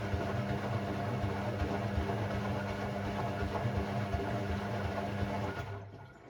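Hoover Sportswear 1300 washing machine's drum motor running with a steady hum and whine, then switching off near the end and winding down as the drum coasts to a stop.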